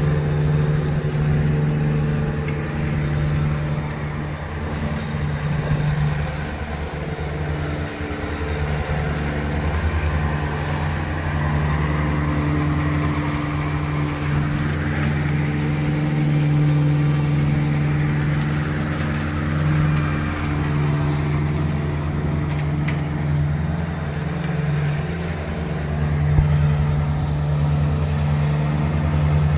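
Ride-on lawn mower's engine running steadily while mowing, with a constant low engine drone.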